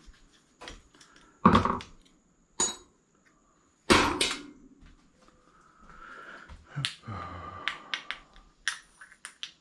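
Scrap brass plumbing fittings being handled: three sharp metal clanks, the loudest about four seconds in, then a stretch of scraping followed by small clicks.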